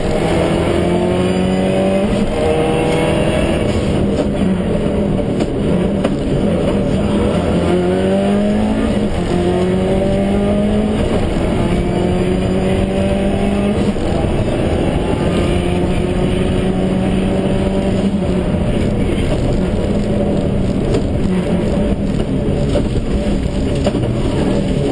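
Subaru Impreza STI's turbocharged flat-four engine heard from inside the cabin, accelerating hard along a stage. Its note climbs in pitch and drops back at each gear change, several times over.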